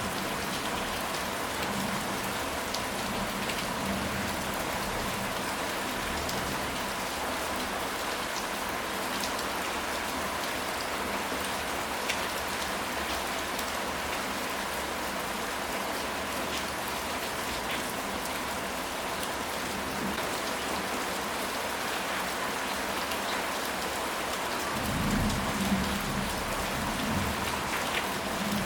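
Steady rain falling on a surface, with scattered individual drops ticking through the hiss. A low rumble of distant thunder swells near the end.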